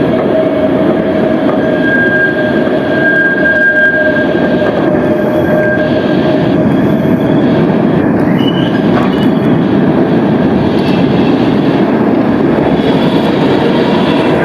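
Berlin tram running by with a steady rumble from its wheels on the rails; a thin, steady wheel squeal sounds over it and fades out about halfway through.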